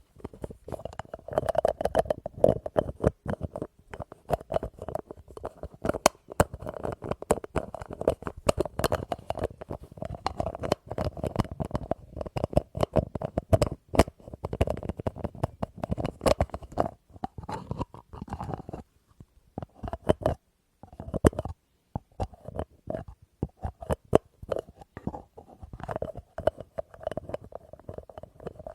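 Rapid, continuous ASMR tapping on an object and its lid, with a short pause about two-thirds of the way through.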